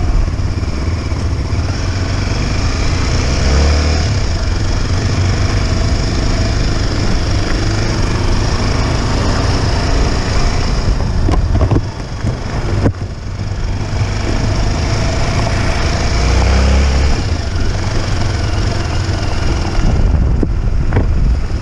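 Motorcycle engine running while riding, its pitch rising and falling with the throttle, under heavy wind rumble on the microphone. The engine note drops off briefly about twelve seconds in, then picks up again.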